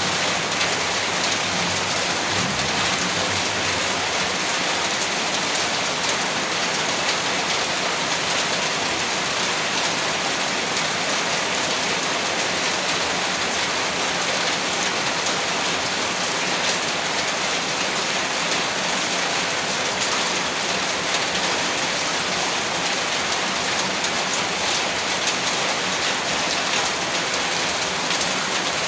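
Heavy rain falling steadily, a dense, even hiss with a fine patter of many drops striking a surface.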